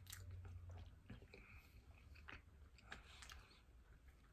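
Faint chewing of a mouthful of ham-and-cheese sandwich on soft, dry bread, with scattered small mouth clicks and smacks.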